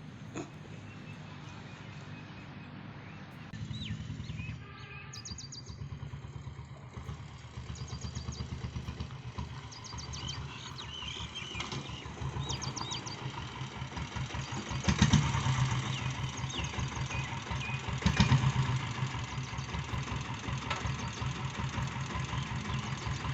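A motorcycle engine running steadily with an even pulse, growing louder after the middle with two brief swells in level. Birds chirp over it in the first half.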